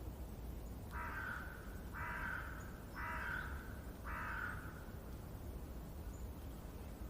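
A crow cawing four times, about a second apart, over a steady low rumble.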